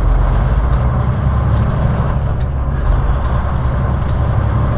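Semi truck's diesel engine running steadily, heard from inside the cab as a low, even drone.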